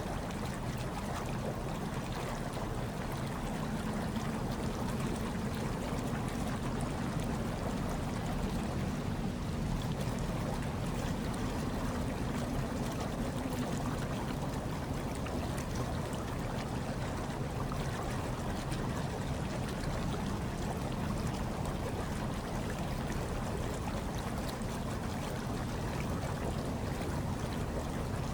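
Hot tub water bubbling and churning steadily over a low, even rumble.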